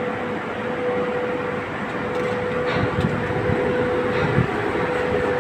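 Steady drone of ship machinery with a constant hum, and a few dull knocks about three seconds in and again just after four seconds.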